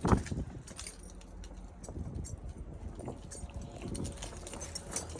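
Footsteps walking through a junkyard, with irregular light clicks and clinks of handling noise and a low steady rumble underneath; a sharp thump right at the start.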